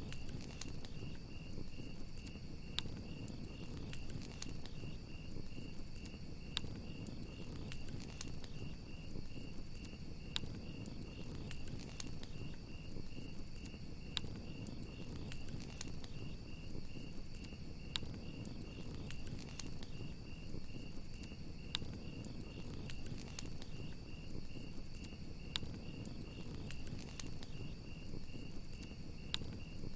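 Crickets chirping in a steady, pulsing high trill, with a campfire crackling underneath in scattered sharp pops over a low rushing of the flames.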